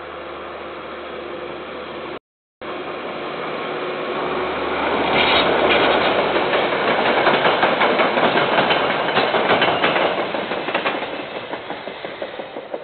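KiwiRail train passing by: running noise and rapid wheel clatter on the rails build up to a peak through the middle and fade away near the end. The sound cuts out briefly about two seconds in.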